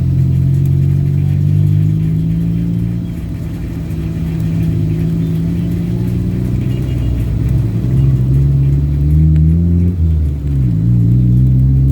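A vehicle engine running while driving, with its low hum dropping and rising in pitch a few times in the last few seconds.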